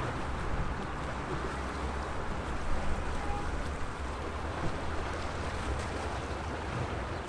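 Sea waves washing steadily against the shore, an even rush of water over a continuous low rumble.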